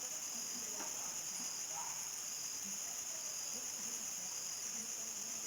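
Crickets chirping in a steady, unbroken high-pitched chorus, with faint short low calls scattered underneath.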